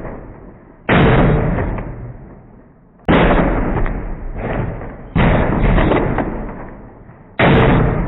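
Gunshot reports and .357 Magnum bullet strikes on a target, played back at about a fifth of normal speed so each one is lowered and stretched. Four sharp bangs, each dying away slowly over about two seconds, some followed by a second smaller crack about half a second later.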